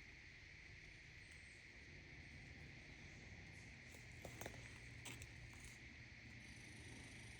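Faint, steady chorus of insects such as crickets, with a few small clicks or twig snaps about halfway through.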